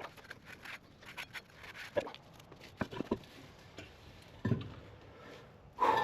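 Light clicks and taps of metal parts being handled, a dull knock about four and a half seconds in, and a louder clank with a ringing metal tone near the end, as a heavy truck brake drum is handled on its way onto the hub.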